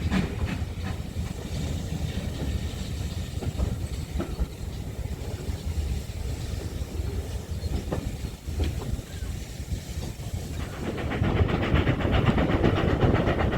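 Steam train hauled by GWR Manor class 4-6-0 No. 7828 Odney Manor running on the line: a low rumble of wheels on rail with a few clacks, growing louder about eleven seconds in.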